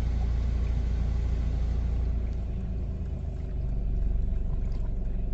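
Steady low rumble heard from inside a car's cabin in an automatic car-wash bay, with no water spraying. It dips briefly about two and a half seconds in, and there are a few faint ticks near the end.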